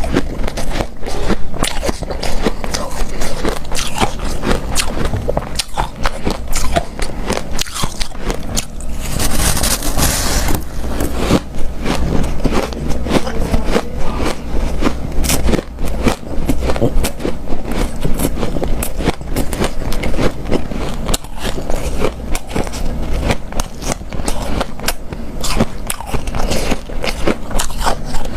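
Close-up biting and chewing of hard, snow-like powdered ice: dense, irregular crunching with a soft squeak. A brief hiss about a third of the way in.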